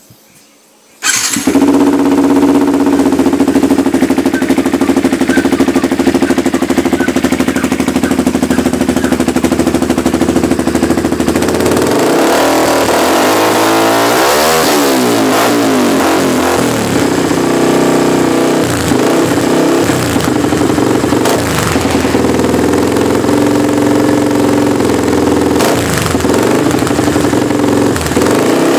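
Yamaha New Vixion motorcycle's single-cylinder four-stroke engine starting abruptly about a second in and idling through a custom exhaust: a re-tuned Suzuki Satria FU header pipe with a NOB1 silencer packed with added glasswool. In the second half the throttle is blipped, the revs rising and falling several times.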